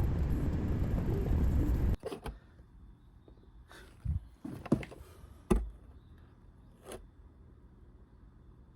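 A car engine running with a loud, steady rumble that cuts off abruptly about two seconds in, followed by a few scattered knocks and clicks.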